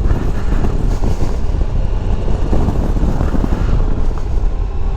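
Motorcycle running on the road, its engine and tyre noise under heavy wind buffeting on the microphone, loud and steady.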